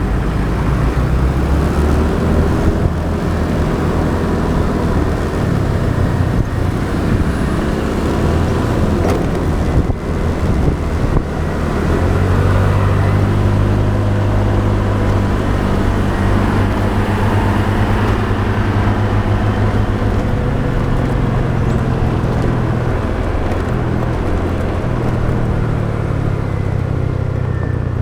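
Motorbike ride heard from the bike: the engine runs under steady road and wind noise, with passing traffic. The engine note shifts up and down with throttle changes and grows steadier and stronger from about halfway.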